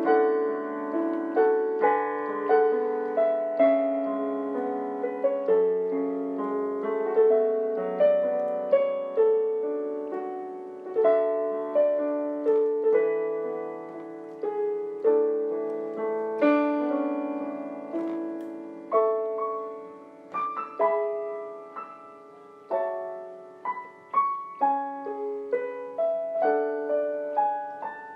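Background music: a gentle solo piano piece, single notes and chords struck and left to fade.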